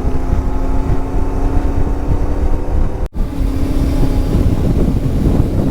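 Motorcycle engine running at a steady cruising speed under heavy low wind rumble on the helmet microphone. The sound cuts out for an instant about three seconds in, then resumes.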